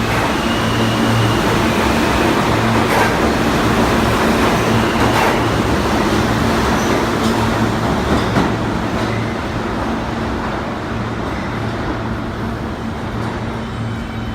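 New York City subway train running on the rails: a steady rumble and hum with a few sharp clacks, growing quieter in the second half.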